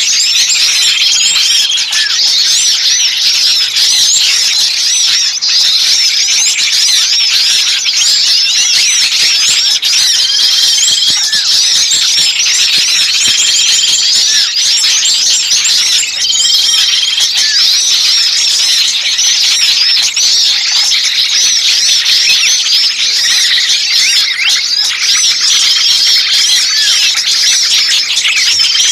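Dense, noisy chorus of many small songbirds chirping and chattering at once, a bird-lure recording of agitated small birds. A short, steady whistled note cuts through every few seconds.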